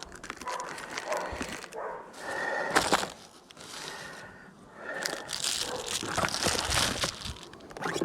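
Wrapping crinkling and rustling in irregular bursts as bee feed is unwrapped and handled.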